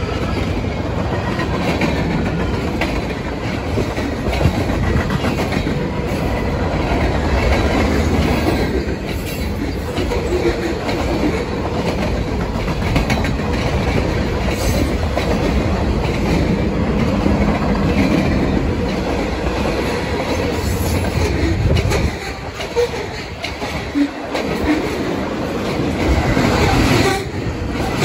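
Freight cars of a mixed freight train rolling past close by: a continuous heavy rumble with the clickety-clack of wheels over the rail joints. Near the end the rumble eases briefly, then swells again.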